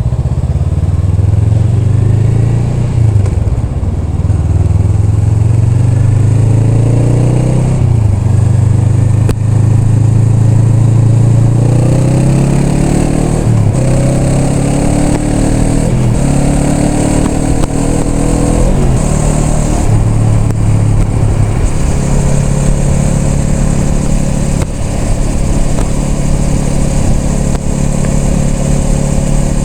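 Honda Rebel 500's parallel-twin engine under way, its pitch climbing and dropping back several times as it pulls through the gears. It then holds a steady note at cruise over the last several seconds.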